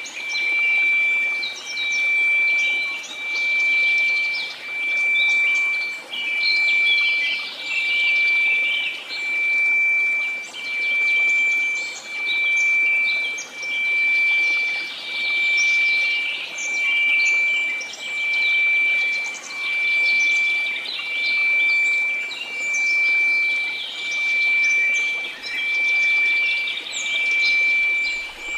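A steady 2334 Hz sine tone over a faint white-noise hiss, swelling and fading in volume about every one and a half seconds, with birds chirping.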